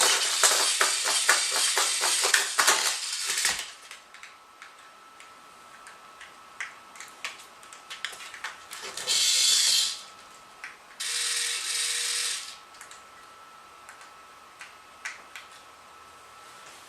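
Battery-powered toy spider's mechanism clicking and buzzing rapidly, then stopping about three and a half seconds in, followed by scattered light clicks. Two short hissing noises come about nine and eleven seconds in.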